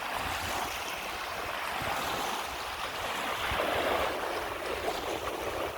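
Lake waves washing on the shore as a steady rush that swells briefly about three and a half seconds in, with wind rumbling on the microphone underneath.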